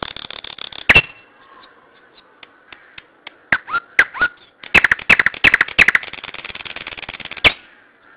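A bird calling: a buzzy rattle at the start, then a few sharp clicks and three quick chirps that slide down in pitch, then a longer rattle of rapid clicks that cuts off suddenly a little before the end.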